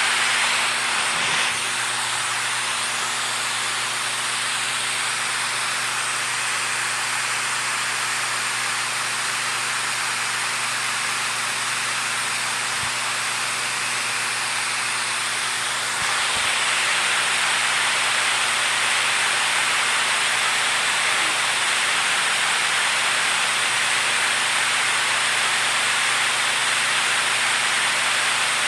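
Steady rushing water, an even hiss with no distinct splashes, a little louder from about halfway through.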